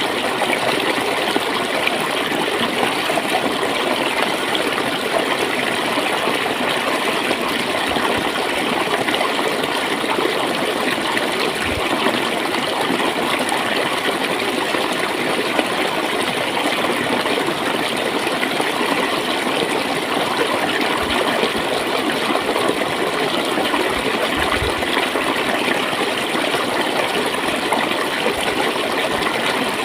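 Clear flowing water gurgling steadily, an even rushing without pause.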